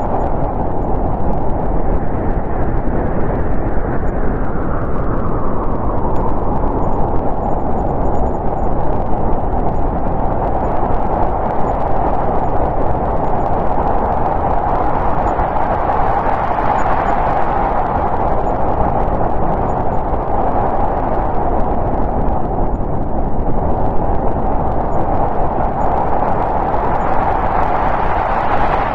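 Snowstorm wind blowing steadily, a dense hiss with a hollow howl that slowly swells and shifts in pitch.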